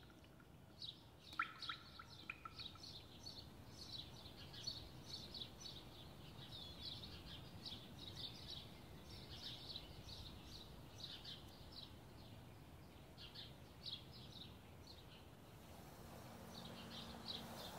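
Faint chirping of small songbirds: runs of short, high calls repeated in quick succession, pausing briefly about fifteen seconds in, over a low steady background noise.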